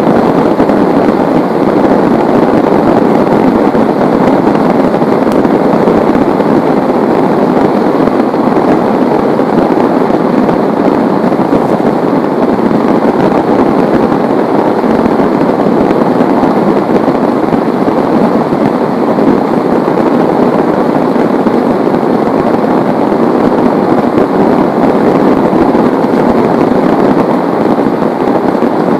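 Heavy rain falling steadily, a loud, even downpour with no break or thunderclap.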